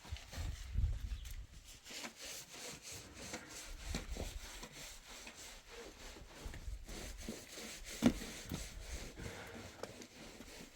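Irregular scraping, rubbing and knocking of objects being handled, with one sharper knock about eight seconds in.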